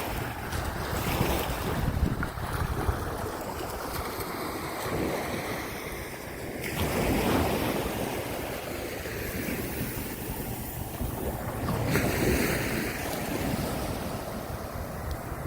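Gulf surf washing onto the beach, with wind buffeting the microphone; the wash swells twice, about seven and twelve seconds in.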